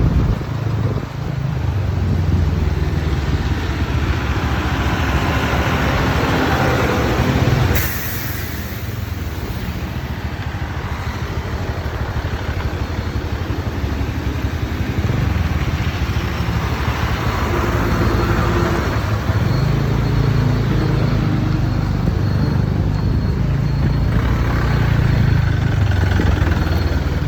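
TVS Ntorq 125 scooter's single-cylinder engine running at road speed, mixed with wind and road noise. The sound changes abruptly and drops a little about eight seconds in, then builds back up later.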